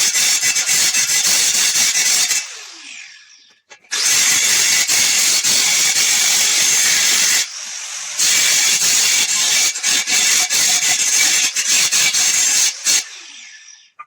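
A power tool running loud in long runs while cutting or working material. It stops and winds down with a falling pitch about two seconds in, starts again about four seconds in, dips briefly near the middle, and winds down again near the end.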